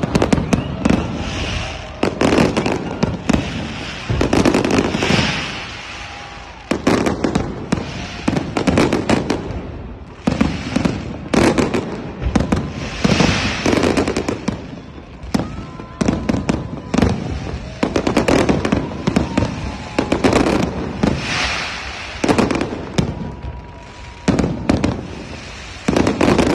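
Aerial fireworks display: shell bursts booming and crackling in dense, quick clusters, with short lulls every few seconds before the next volley.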